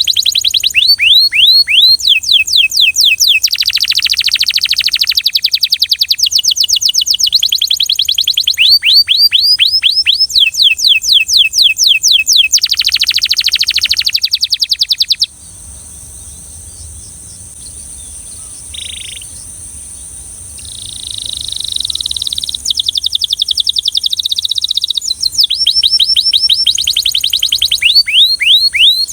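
A Belgian canary singing in phrases of fast repeated falling notes and dense buzzy rolls. The song drops to a much quieter pause about halfway through, then starts again near the end.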